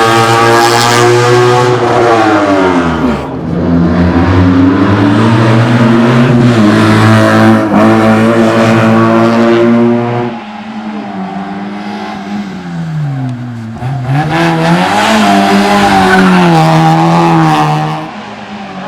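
Slalom racing prototype car's engine revving hard through the gears. Its pitch drops sharply about two to three seconds in as the driver lifts off, then climbs again. A little over ten seconds in the engine suddenly gets quieter, revs up again, and drops away near the end.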